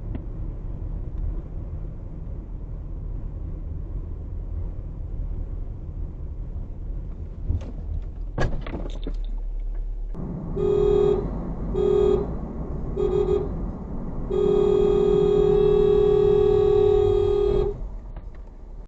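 Steady low rumble of a car on the road, with a few sharp clicks about halfway through. Then a car horn sounds three short toots and one long blast of about three seconds.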